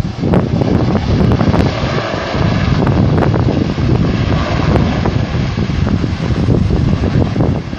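Loud wind buffeting the microphone over the steady sound of aircraft engines, with a faint whine in the first few seconds.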